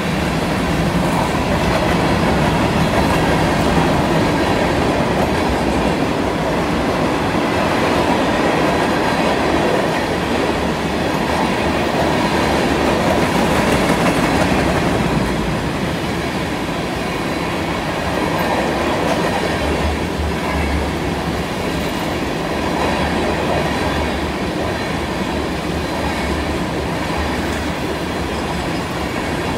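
Freight train cars rolling past on a curve, wheels clattering steadily over the rails with a faint high squeal from the wheels in the curve.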